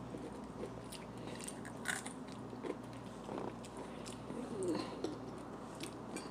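A person chewing and biting fried chicken, with scattered small crunches and mouth clicks.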